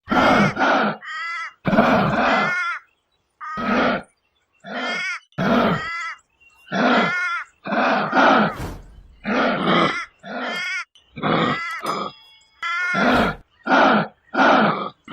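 An animal calling over and over in short pitched calls, about one a second, each lasting around half a second.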